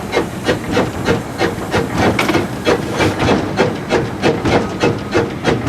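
Steam locomotive exhaust beats from the stack of Disneyland Railroad No. 4 Ernest S. Marsh, a 1925 Baldwin, in a quick, even rhythm as the engine works along with its fire shut off.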